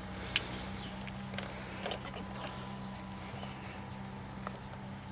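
Scattered light ticks and pattering, the noise that was taken for rain, over a steady low hum; one sharper tick stands out about half a second in.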